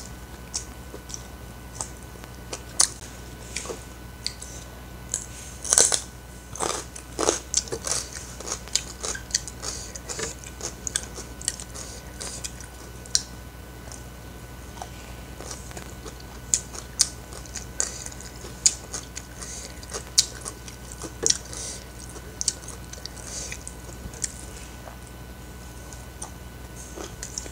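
A person chewing a mouthful of rice and boiled cassava leaves close to the microphone: wet smacking and crunchy clicks, busiest from about six to eleven seconds in and again from about sixteen to twenty-four seconds in, over a faint steady low hum.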